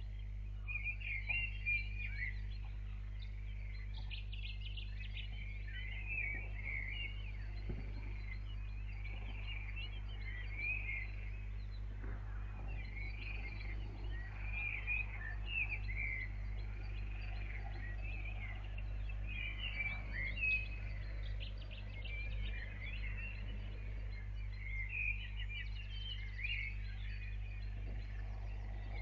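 Several small birds chirping and singing in a dawn chorus, over a steady low electrical hum.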